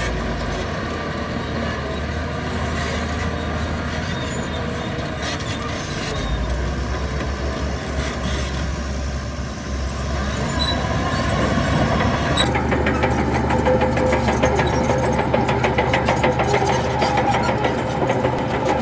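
Diesel engines of heavy earthmoving machines working, a bulldozer and dump trucks. About twelve seconds in, the sound turns louder, with a fast, even engine clatter.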